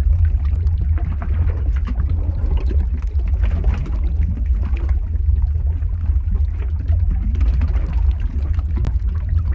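Lava flow ambience sound effect: a steady deep rumble overlaid with dense, irregular crackling and bubbling.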